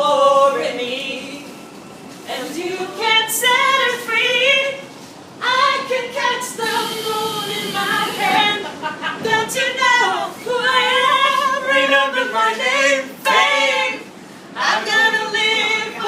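A group of girls singing together in chorus, unaccompanied, in phrases broken by short pauses.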